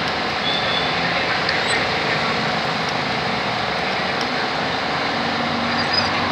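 Steady background traffic noise, an even hum of passing vehicles, with a few faint ticks.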